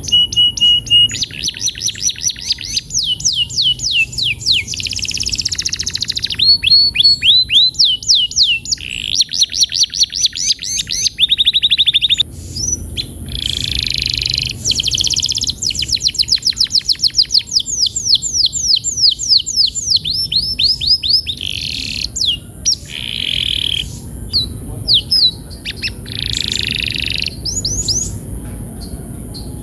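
Domestic canary singing a long, loud song of fast trills and rolls: runs of rapidly repeated notes that switch to a new pattern every second or two, with brief pauses between phrases.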